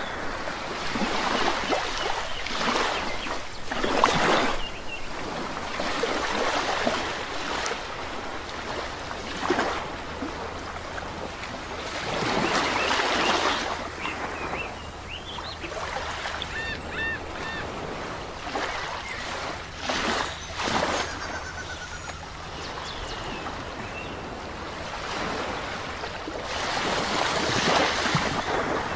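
Sea waves washing onto a shore in repeated surges, with a few short bird chirps about halfway through.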